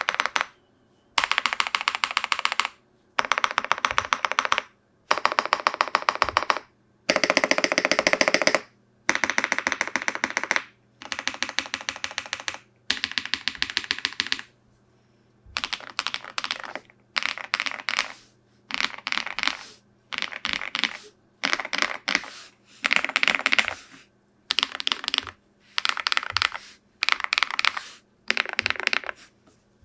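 Typing on a Tiger80 Lite TKL mechanical keyboard with a plastic case, PC plate, foam mods and lubed KNCKeys Green Jackets switches: rapid keystrokes in bursts of a second or two with short pauses between, the bursts growing shorter in the second half.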